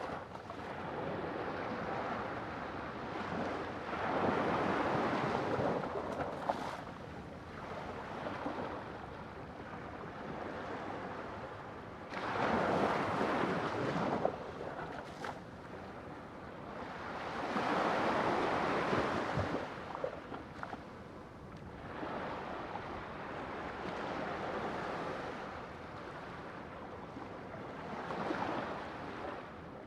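Sea waves washing onto a shore, swelling and falling back every several seconds. The strongest wave breaks suddenly about twelve seconds in, and another big surge follows around eighteen seconds.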